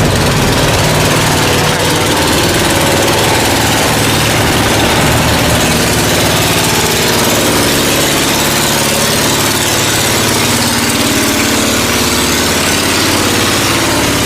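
Boat engine running steadily, a low engine hum under a loud hiss.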